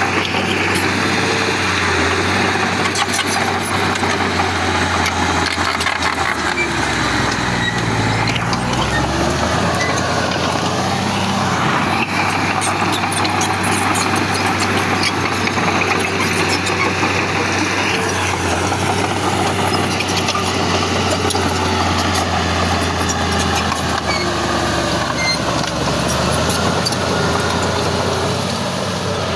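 Heavy diesel earthmoving machinery running steadily, the engine revs rising and falling a few times, with scattered clicks and clanks.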